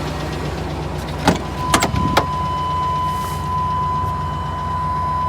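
1998 GMC Savana's 5.7 V8 idling steadily, with a few sharp clicks and knocks about a second in as the van's door is opened and someone climbs in. Right after, a steady high electronic tone comes on and keeps sounding over the idle.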